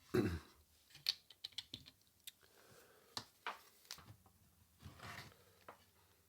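Scattered light clicks and taps at an irregular pace, from a multimeter and its test probes being handled on the workbench.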